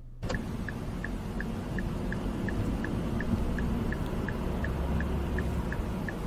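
Steady road noise from a vehicle on the move, as a dashcam picks it up, with a light, even ticking about three times a second.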